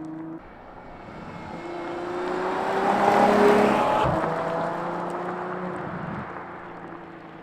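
Ferrari F12 Berlinetta's 6.3-litre V12, breathing through a valved titanium exhaust with an X-pipe and factory downpipes, driving past: the engine note builds to its loudest about three seconds in, then fades as the car moves away.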